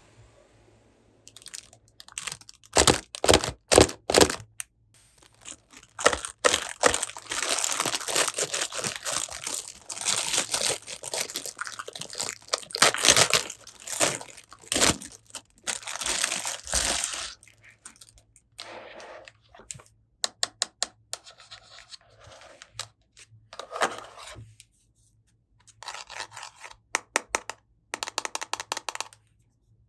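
Toy unboxing handling sounds: packaging tearing and crinkling in a long stretch near the middle, with sharp clicks and taps of small plastic pieces before and after.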